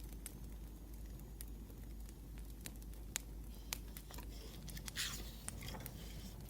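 Wood fire crackling: scattered sharp pops and ticks over a steady low rumble. A brief scratchy rustle about five seconds in.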